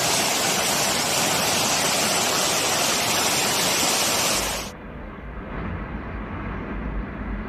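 Typhoon wind and rain: a loud, steady rush of storm noise that cuts off suddenly about four and a half seconds in, giving way to a quieter rush with a deep rumble underneath.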